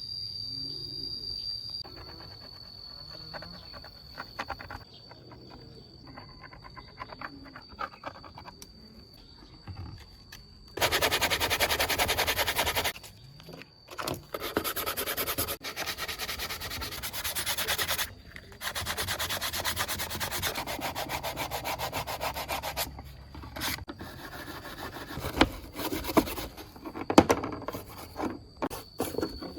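Abrasive sanding or scrubbing in several long, loud stretches of a few seconds each, starting about eleven seconds in, with shorter strokes near the end. Before it, a steady high tone like crickets over faint handling sounds.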